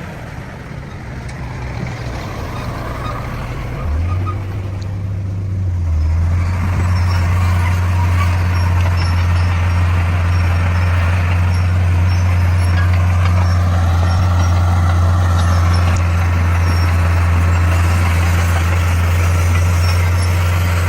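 Komatsu D41 bulldozer's diesel engine running, quieter at first and picking up about four to six seconds in, then holding a steady drone.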